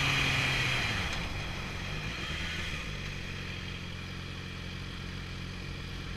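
Motorcycle engine easing off, its pitch and loudness falling over the first second or two as it slows, then running steadily at low revs.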